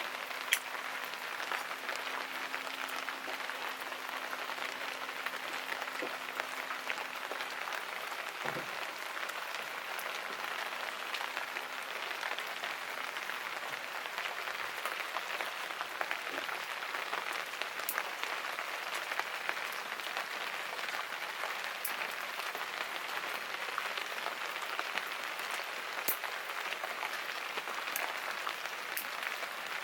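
Steady rain falling, an even hiss with scattered sharp ticks through it.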